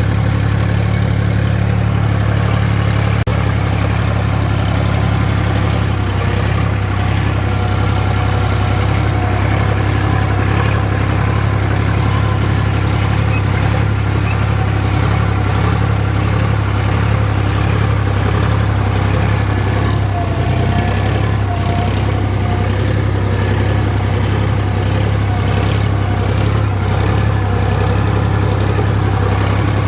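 Sonalika DI 35 tractor's diesel engine running at a steady speed.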